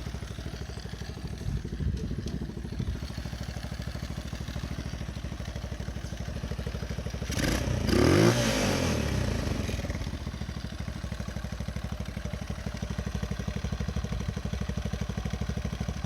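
Small single-cylinder four-stroke engine, a Chinese Honda-clone, running at a steady idle with an even pulse. About halfway through it revs up briefly and falls back to idle, still running smoothly after the over-10,000 rpm test.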